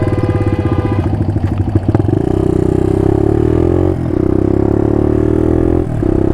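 Suzuki DR200's single-cylinder four-stroke engine running at low revs for about two seconds, then pulling away with the revs climbing steadily, broken by two brief dips about two seconds apart as it shifts up through the gears.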